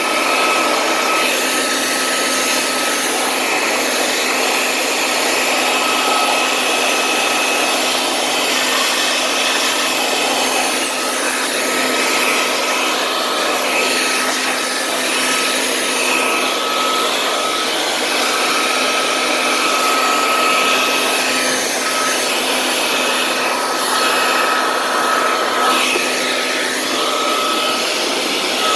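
Small electric fan-driven motor running steadily with a high whine, its pitch holding almost level.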